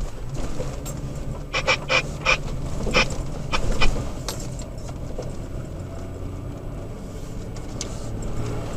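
Toyota Tacoma pickup's engine running with a steady low drone, heard from inside the cab. About a second and a half in comes a cluster of rattles and knocks that lasts a couple of seconds.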